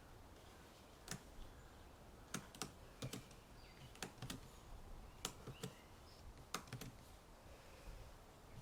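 Computer keyboard typing: an irregular run of about a dozen keystrokes starting about a second in and stopping about a second and a half before the end. Faint bird chirps sit in the quiet outdoor background.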